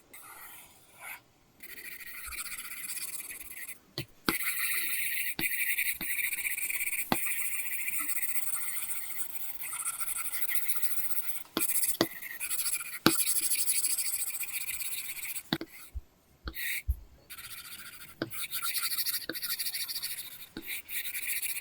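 Apple Pencil (2nd generation) nib scratching across a paper-textured screen film on an iPad Pro as a drawing is made: a dry scratching hiss in long strokes, the longest lasting several seconds near the middle, and in short quick strokes, with sharp taps where the nib touches down.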